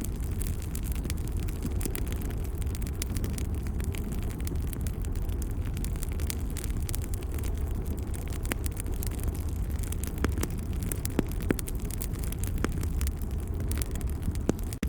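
Wood fire crackling in a fireplace: irregular sharp pops and snaps over a steady low rumble, with a few louder pops past the middle.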